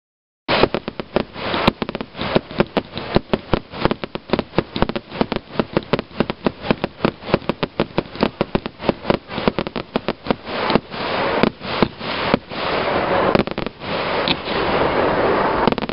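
Fireworks going off in quick succession, several sharp bangs a second, thickening into a continuous crackle near the end.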